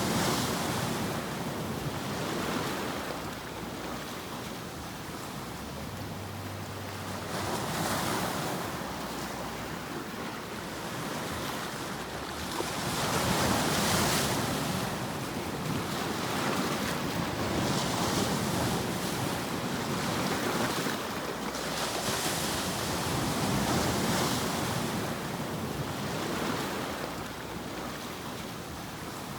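Ocean surf used as a sleep sound: a continuous rushing wash that swells and falls back every five seconds or so as waves break and recede.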